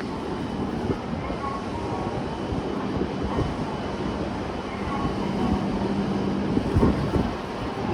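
Shinkansen platform ambience: a steady rumble of crowd and train noise with faint distant voices. A low steady hum runs from about three seconds in to about six and a half.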